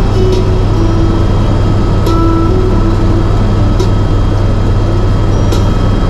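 Helicopter cabin noise in flight: a loud, steady low drone from the rotor and turbine engine, unchanging throughout.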